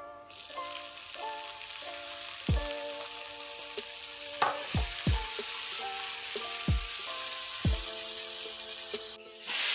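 Chopped tomatoes hitting hot mustard oil and onions in a frying pan: a sizzle that starts suddenly just after the start and carries on steadily as they are stirred with a wooden spatula. Near the end a pressure cooker lets off its whistle, a loud hiss of escaping steam.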